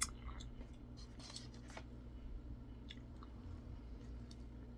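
A person chewing a bite of crispy fried chicken sandwich, with faint crunches and mouth noises. There is a single sharp click right at the start.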